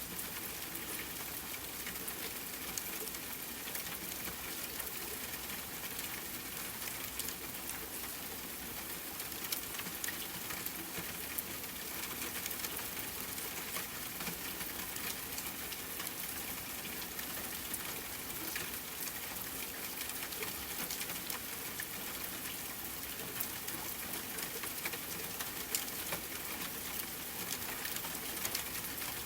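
Steady rain pattering on a tent, with a campfire crackling in scattered small pops and a few louder snaps.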